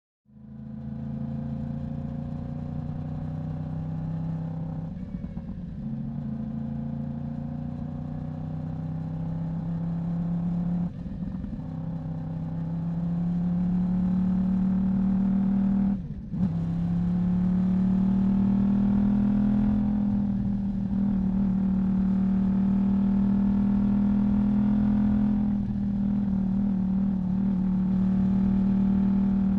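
Yamaha YZF-R1 inline-four sport bike engine running under way, its exhaust note climbing slowly in pitch. The note dips briefly about every five or six seconds as the rider shifts gears.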